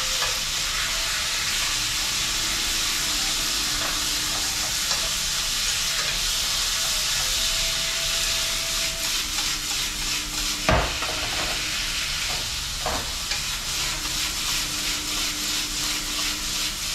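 Food sizzling steadily as it fries in a hot pan, with a sharp knock about eleven seconds in and a lighter one a couple of seconds later.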